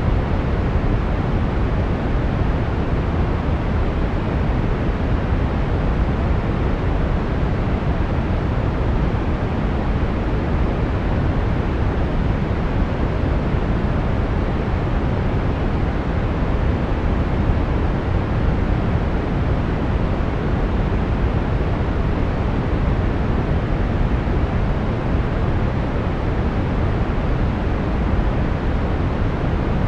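Steady brown noise: an even hiss that is strongest in the low rumble and fades toward the top, with no change in level.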